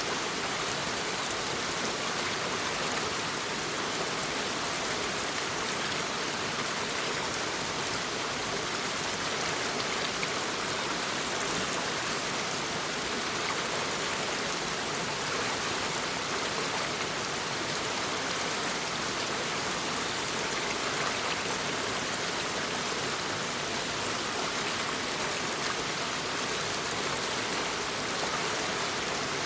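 Shallow brook babbling: a steady, even rush of flowing water over stones, unchanging throughout.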